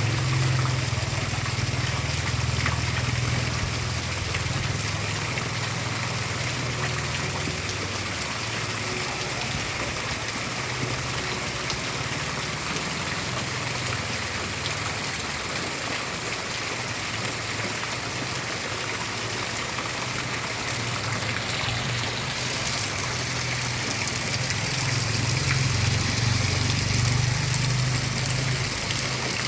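Steady downpour of rain, an even hiss throughout. A low rumble of distant thunder rolls under it at the start and swells again near the end.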